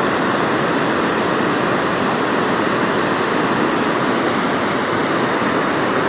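Steady, loud rush of water pouring over a spillway.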